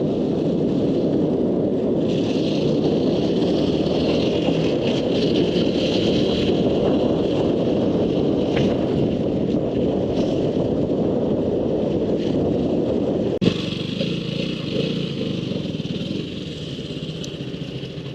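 Motorcycle under way: engine running with a steady rush of wind over the microphone. The sound changes abruptly with a click about thirteen seconds in, then grows quieter toward the end as the bike eases off.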